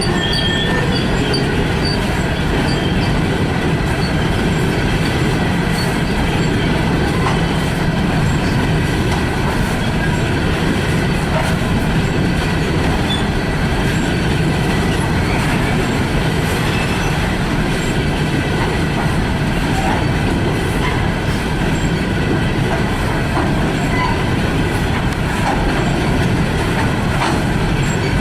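Freight train cars rolling past at steady speed: a continuous loud rumble of wheels on rail with clatter and brief, faint wheel squeal.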